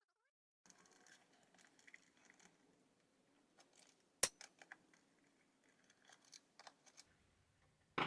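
Faint clicks and light taps from handling a small plastic appliance and tools, with one sharp click about four seconds in.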